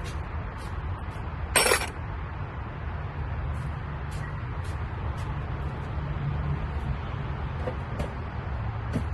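Hand tools being handled: a short, loud clatter about one and a half seconds in, then small scattered clicks and knocks, over a steady low rumble.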